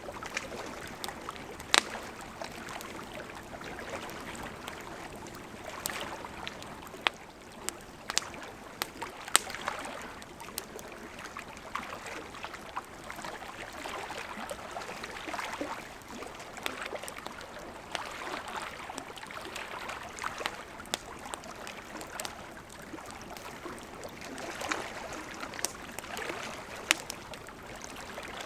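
Campfire crackling with scattered sharp pops, over the steady rush of a gently flowing river.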